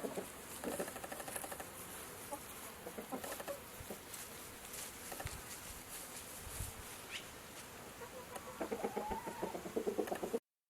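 Chickens clucking in short, scattered calls, with a denser, louder run of clucking near the end before the sound cuts off abruptly.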